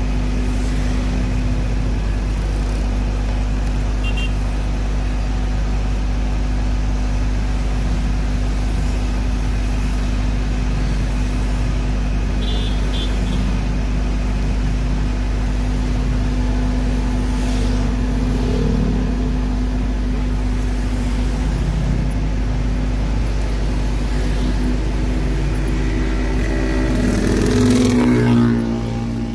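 Fire engine's engine running steadily as it drives, a constant low hum. Near the end the engine revs up louder, then falls away.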